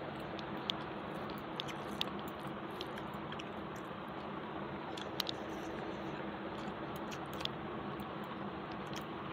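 A person eating rice and curry with her fingers: chewing and small wet mouth clicks over a steady background hiss, with now and then a light tap of fingers on the plate.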